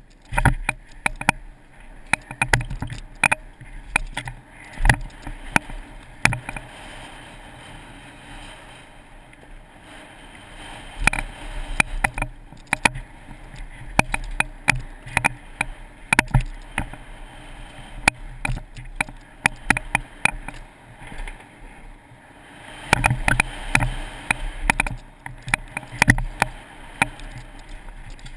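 Moving creek water with many irregular sharp knocks and clatters, thickest in two busy stretches.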